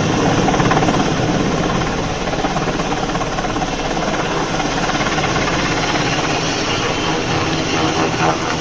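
Helicopter flying close by during a pole delivery: a loud, steady wash of rotor and turbine noise with a rapid beat. It eases a little over the first couple of seconds, then holds level.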